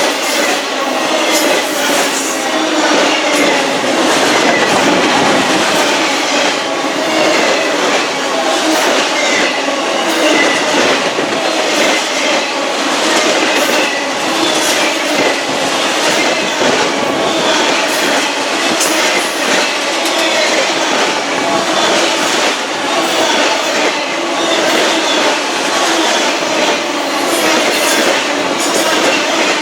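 Railcars of a passing train rolling by close to the track: a steady rumble of wheels on rail with frequent clicks over the joints and some wheel squeal.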